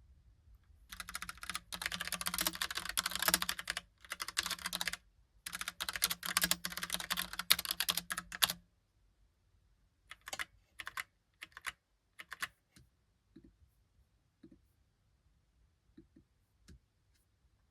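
Logitech Pop Keys mechanical keyboard being typed on in fast, dense runs of keystrokes with two brief pauses, stopping about halfway through; after that only a few scattered single clicks.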